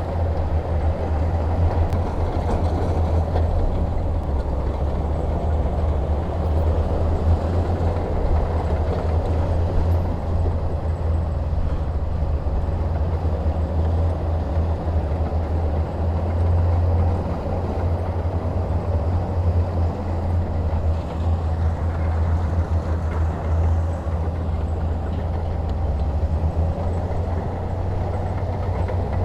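Heavy diesel engine running steadily under load with a deep, even drone.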